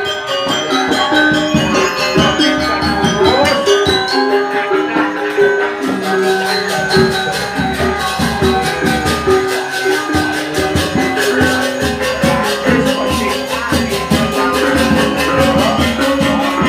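Balinese gamelan music: ringing metal notes over a fast, steady clash of small cymbals.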